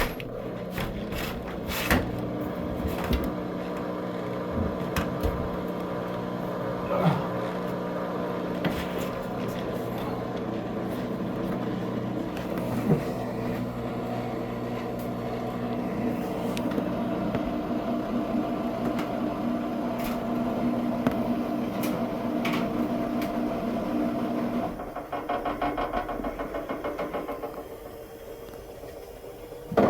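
Washing machine in its spin cycle, the motor running with a steady whine and scattered light clicks and knocks. About 25 seconds in the whine drops away and a rapid pulsing sound follows for a few seconds, then it goes quieter.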